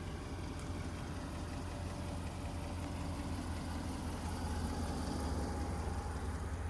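A gasoline engine running steadily at idle, most likely the pressure washer's engine waiting while the trigger is off.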